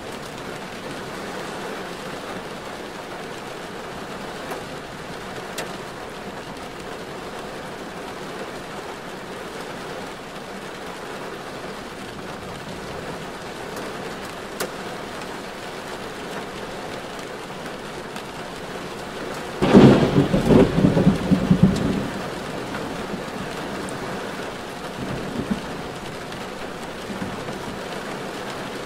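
Steady rain on a moving car, an even hiss throughout. About twenty seconds in, a loud, ragged burst of noise lasts about two seconds and is the loudest event.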